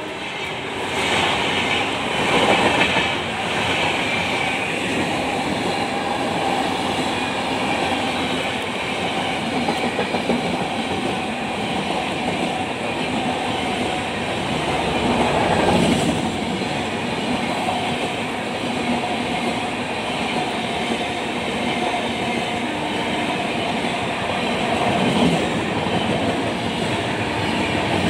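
Express trains' LHB passenger coaches running past at speed close by: a steady, loud wheel-and-rail noise with no letup.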